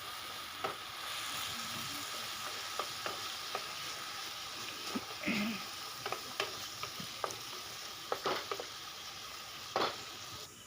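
Diced potatoes frying in hot oil in a kadai, a steady sizzle with scattered clicks and taps of a spatula stirring them against the pan.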